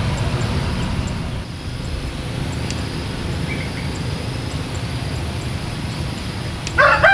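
A steady low rumble of background noise. Near the end a rooster begins to crow loudly.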